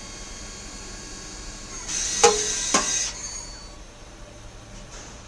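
Citizen M32 Swiss-type CNC lathe running with a steady hum. About two seconds in comes a hiss lasting about a second, with two sharp metallic clinks half a second apart.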